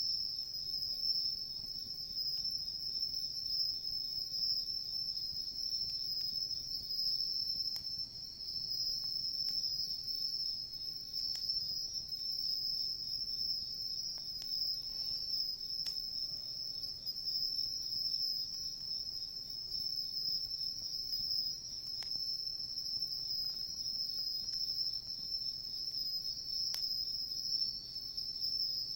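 An unbroken chorus of crickets chirping steadily, high in pitch, with a few faint pops from a wood campfire.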